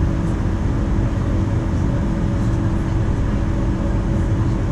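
Steady cabin noise aboard a Boeing 737-900 with CFM56-7BE engines: a low, even rumble of engines and airflow with a steady hum running through it.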